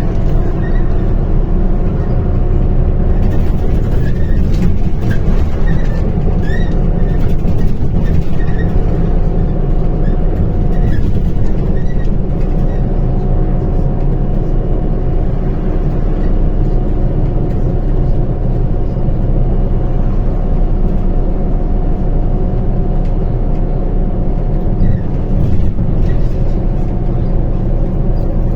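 MAZ-105 city bus under way, heard from inside: a steady diesel engine and road rumble with a constant drivetrain whine, and a few short squeaks in the first dozen seconds.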